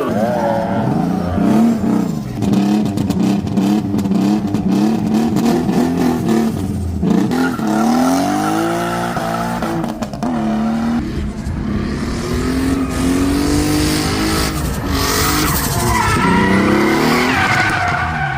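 Turbocharged Nissan 350Z drifting: the engine revs rise and fall repeatedly under throttle while the tyres squeal and screech as they slide.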